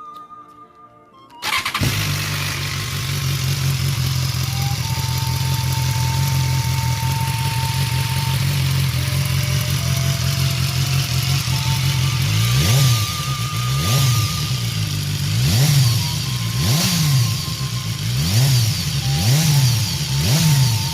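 2016 BMW S1000XR inline-four sport-touring motorcycle on its stock exhaust, starting up about a second and a half in and idling steadily. From about halfway through, the throttle is blipped about seven times in a row, each rev rising and falling quickly.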